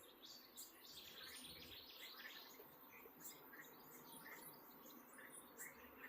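Faint bird chirping: short calls repeating every half second or so over a soft, steady hiss.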